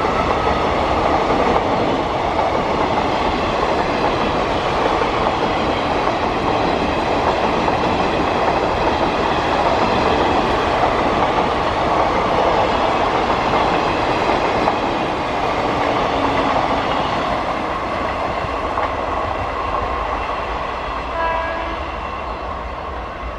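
Indian Railways express train, a WAP-7 electric locomotive and its coaches, running past at speed with a steady loud rumble of wheels on rail that slowly fades over the last several seconds.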